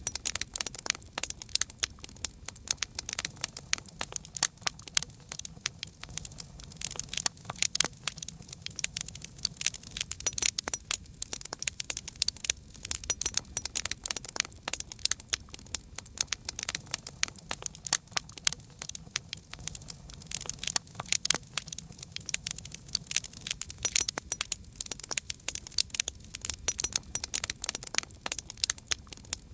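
Campfire crackling: a dense, continuous run of sharp pops and snaps from the burning wood.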